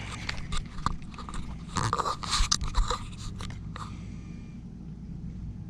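Handling noise: a run of crackles and clicks, densest about two to three seconds in, over a steady low hum.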